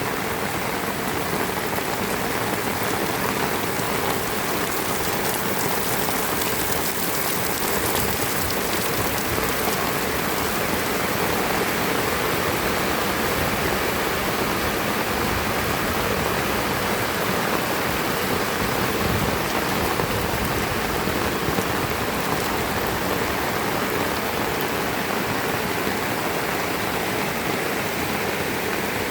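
Heavy rain falling and splashing on surfaces, a steady, unbroken hiss.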